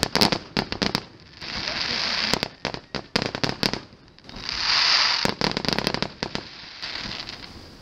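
Fireworks display: a string of sharp bangs and cracks from bursting shells, irregular and sometimes in quick clusters, with two swells of rushing noise, about two seconds in and again about five seconds in.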